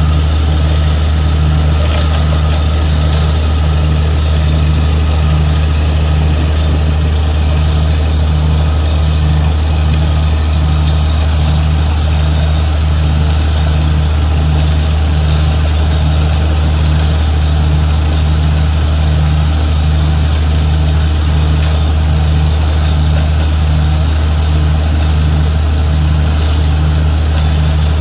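Borewell drilling rig running steadily under load: a loud, deep engine drone with a regular pulse about once a second.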